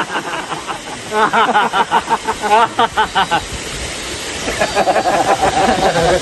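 People's voices over the steady rush of a waterfall, with a quick run of short, repeated voice sounds about a second in and a longer held voice sound near the end.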